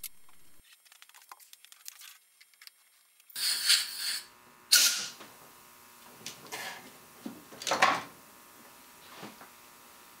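Compressed-air blow gun hissing in about five short blasts as air is blown down the engine's coolant hoses to push the coolant out; the first blast comes about three seconds in, after a near-quiet start.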